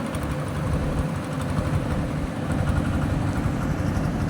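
Heavy diesel engine running steadily, with deep, even low-end energy throughout.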